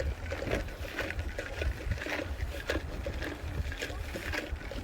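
Outdoor ambience dominated by wind buffeting the microphone: a constant, fluttering low rumble, with scattered light knocks and faint distant voices.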